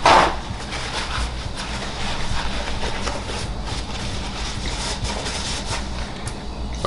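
A man chewing a bite of salmon, faint irregular mouth noises over a steady low hum, with a brief louder sound right at the start.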